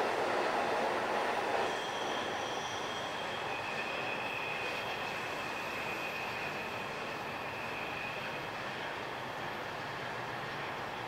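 Keiyo Line E233-5000 electric train running away along the tracks, its rumble dropping off about two seconds in. From then until about eight seconds in, a thin, high, steady wheel squeal sounds over the fading running noise.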